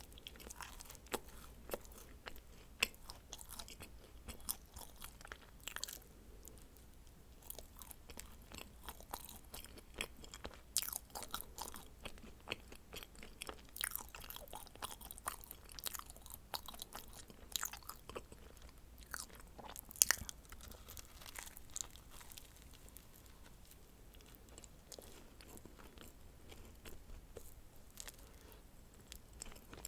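Dacquoise being bitten and chewed, with many small crisp crunches and wet mouth clicks coming in bouts, and one sharp loud crack about two-thirds of the way through.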